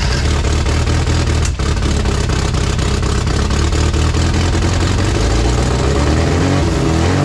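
Freshly rebuilt 1380 Classic Mini four-cylinder A-series engine running loud and steady just after its first start, its pitch wavering near the end. It is running with an air leak that the builder calls massive.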